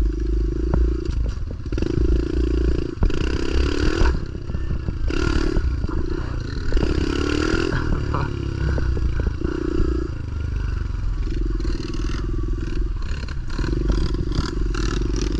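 Pit bike engine revving in repeated bursts, rising and dropping every second or two, over a steady low rumble with scattered clatter and knocks.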